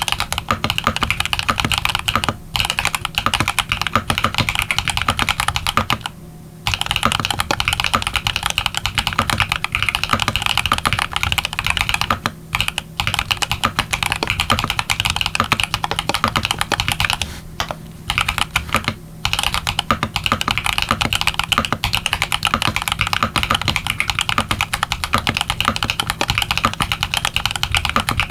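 Fast, continuous typing on a Mode80 mechanical keyboard with brass reinforcement, fitted with factory-lubed TX Lemonade linear switches and PBT dye-sublimated keycaps. A handful of brief pauses break the typing, the longest just after six seconds.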